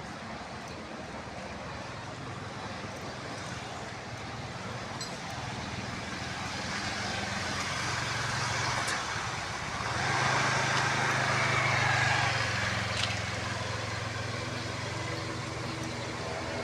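A motor vehicle engine running steadily, growing louder to a peak around ten to twelve seconds in as it passes, then fading somewhat.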